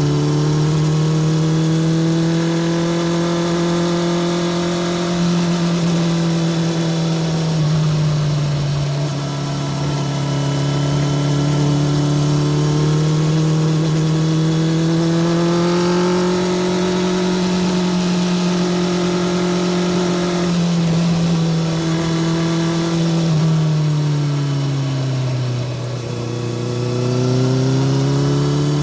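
Honda CBR650R's inline-four engine through a Spark full titanium short exhaust, running under way at fairly steady revs. The engine note sinks and climbs back slowly twice, about eight seconds in and again near the end.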